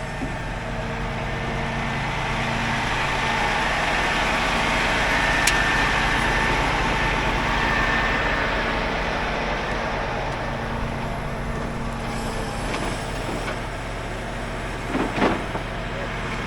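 Heavy rollback tow truck's engine running steadily, growing louder through the middle and easing off again, with a sharp click about five seconds in and a brief knock near the end.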